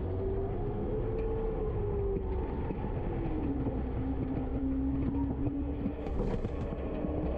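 Garbage truck running with a steady low rumble and a whine that rises a little, drops in pitch about three seconds in, then holds steady.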